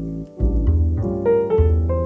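Calm piano music with low bass notes under changing chords, with a brief gap about a third of a second in.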